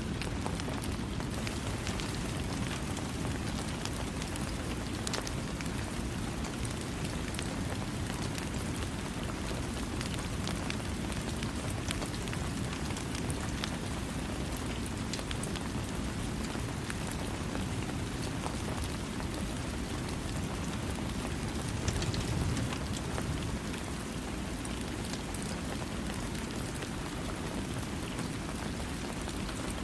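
Steady rain falling, a dense hiss of drops pattering on surfaces with no thunder, swelling slightly louder for a moment about two-thirds of the way in.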